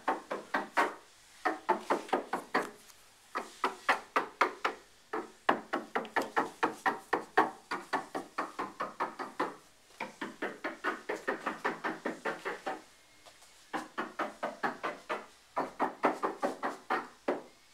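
Hand paint-scraping on house siding: rapid runs of scraper strokes, about four to five a second, stopping and starting several times.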